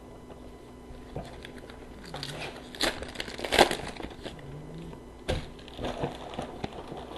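Foil wrapper of a hockey card pack crinkling and tearing as it is opened, with cards being handled. The crackling comes in clusters of sharp rustles, loudest about three seconds in, with another snap near the end.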